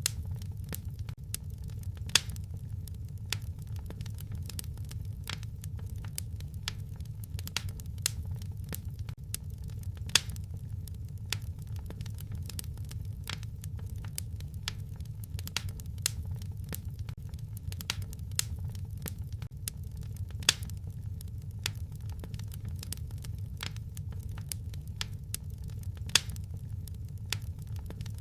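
Wood fire crackling in a fireplace: a steady low rumble of the flames with irregular small snaps and a handful of louder pops.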